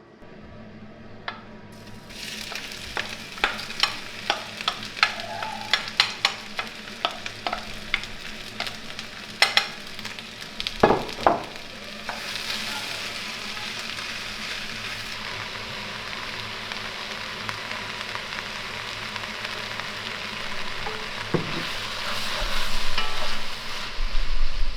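Sliced onions sizzling in oil in a frying pan, the sizzle starting about two seconds in. A utensil knocks and scrapes against the pan again and again through the first half as they are stirred, then the sizzle runs on steadily.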